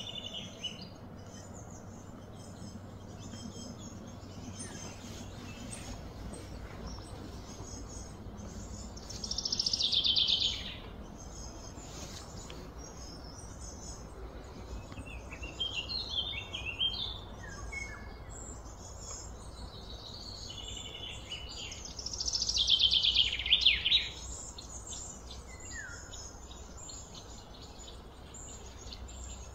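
Birds chirping and calling over a steady low background noise. Two louder trills of rapid notes fall in pitch, each lasting about two seconds: one about ten seconds in and one about twenty-two seconds in.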